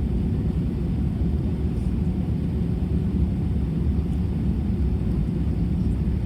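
Steady low rumble of engine and airflow noise inside the cabin of an Airbus A320.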